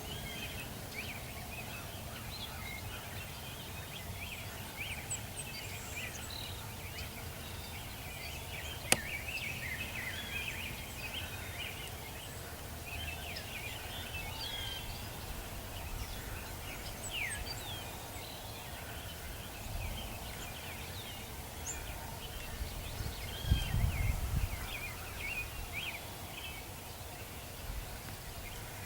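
Woodland ambience with many small birds chirping and twittering, and a wild turkey gobbling in the distance. A single sharp click about nine seconds in, and a brief low rumble near the end.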